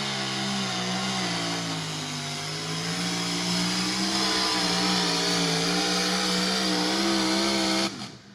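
Modified turbocharged diesel pickup pulling the sled at full throttle, its engine held high in the revs. The revs sag about a second or two in as the truck hunts for traction, then climb back and hold, with a high whine rising over the middle. The engine note cuts off suddenly near the end as the driver lets off at the end of the pass.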